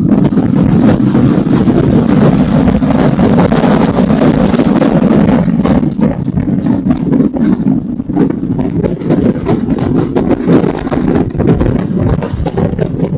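Motorcycle engine running steadily while riding, with wind noise on the microphone growing uneven from about halfway through.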